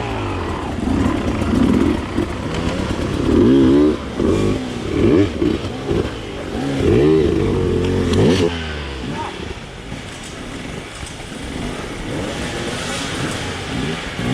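Enduro dirt bike engine heard from onboard, revving up and falling off again and again in short surges as the throttle is worked. About nine seconds in, it drops to a quieter, lower running.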